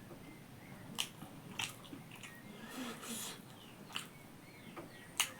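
Close-miked chewing and biting on pork, with several sharp mouth clicks and smacks.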